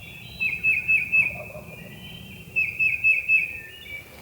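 A songbird singing two runs of four or five quick, repeated whistled notes, each note slurring down and levelling off, over a low steady background noise.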